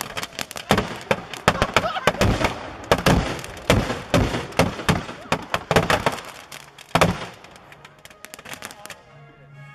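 Firework shells going off in rapid succession, a fast volley of bangs and crackles with one especially big blast about seven seconds in, then thinning out. This is a batch of shells exploding together in a pickup's bed rather than launching one by one.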